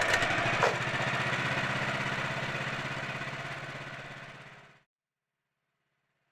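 An engine running steadily, slowly fading and then cutting off abruptly about five seconds in.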